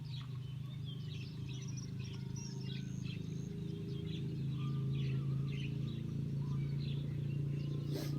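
Small birds chirping and calling, many short high notes, over a steady low hum. A single sharp click comes near the end.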